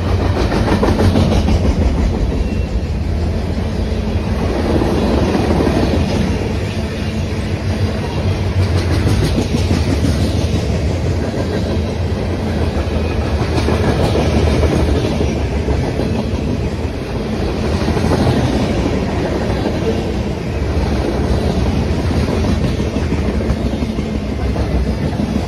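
Cars of a mixed freight train rolling past, with the wheels clacking over the rail joints above a steady rumble. The sound swells and eases every few seconds as the cars go by.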